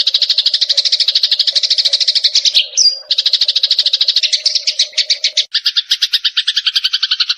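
Eurasian tree sparrows chattering: a fast, steady run of chirps, about ten a second, with a brief gliding call about three seconds in and a lower-pitched run of chirps from about five and a half seconds until the sound cuts off.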